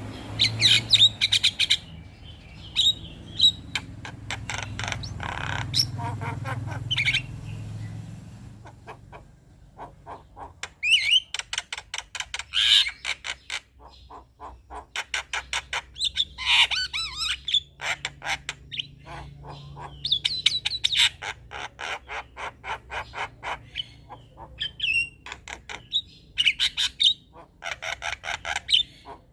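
Male Javan myna (jalak kebo) chattering: repeated runs of rapid, harsh clicking notes and squawks, each run a second or two long with short pauses between.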